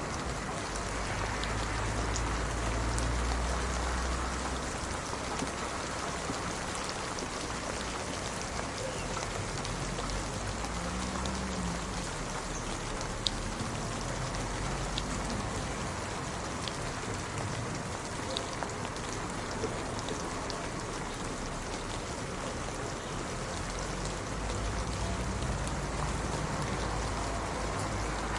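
Steady rain falling and pattering on surfaces, an even hiss with a few separate sharper drop hits.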